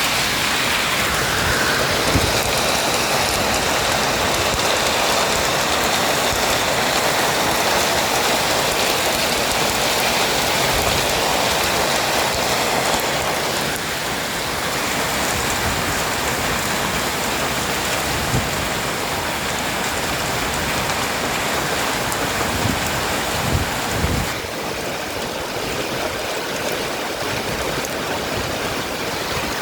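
Heavy storm rain with hail, a dense steady rush, driven by strong wind with a few low thumps. It eases slightly about 24 seconds in.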